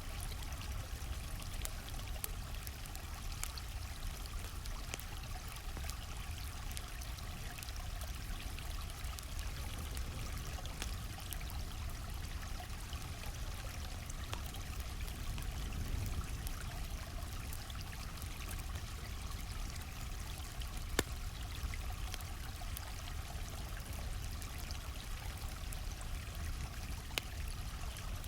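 Steady rush of a flowing stream, with frequent small crackles and a few sharper pops from a campfire.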